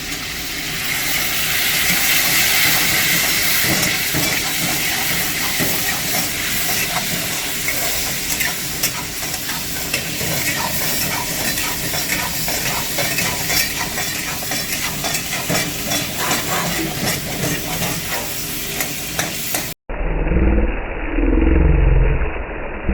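Chicken sizzling hard in a hot karahi while being stirred, a steady frying hiss broken by frequent quick clicks and scrapes. Near the end the sound cuts out abruptly and a different, muffled sound takes over.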